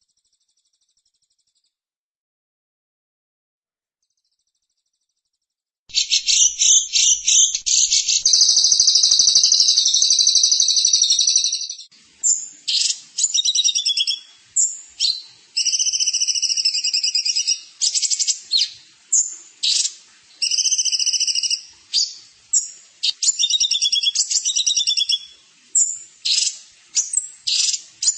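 Silence for about six seconds, then a songbird starts singing loudly: a quick run of notes, a sustained fast trill for about four seconds, then a long series of short high trilled phrases separated by brief pauses.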